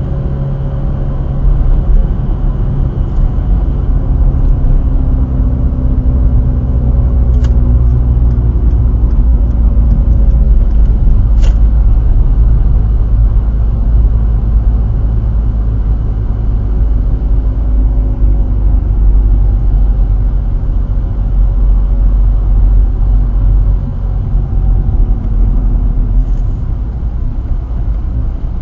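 Skoda Fabia vRS's 1.9 TDI diesel engine and road rumble heard from inside the cabin as the car runs at low speed into the pit lane, the engine note shifting slowly. Two brief clicks come through, one about a third of the way in and another a few seconds later.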